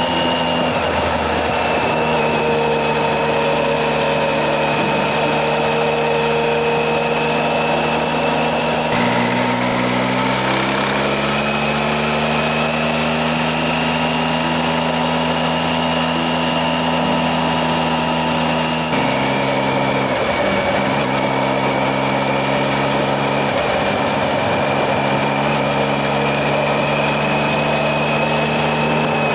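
Triumph Tiger 800XC's three-cylinder engine running under way at cruising speed, heard from the rider's helmet over a steady wash of wind and road noise. The engine note shifts down suddenly about a third of the way in and then climbs slowly, and jumps up again about two thirds of the way in.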